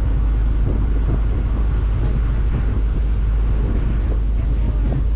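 A riverboat's engine drones steadily, with wind buffeting the microphone.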